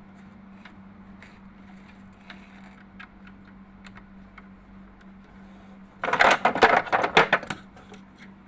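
Small metallic clicks of hand tools on a sewing machine's hook mechanism while its fixing nut is tightened, over a steady low hum. About six seconds in comes a loud burst of rattling metal clatter lasting about a second and a half.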